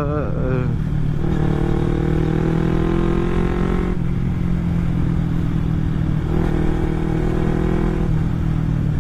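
Carburetted Kawasaki Ninja 250 parallel-twin running under way through an aftermarket Akrapovic-style exhaust. Its pitch rises slowly under throttle, drops suddenly about four seconds in, then holds steady.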